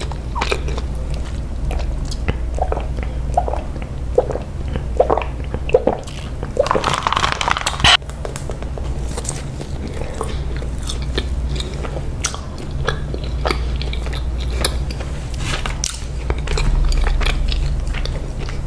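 Close-up eating sounds of someone biting into and chewing donuts: soft bites, wet mouth clicks and chewing noises come irregularly throughout. A longer noisy bite or rustle comes about seven seconds in, over a steady low hum.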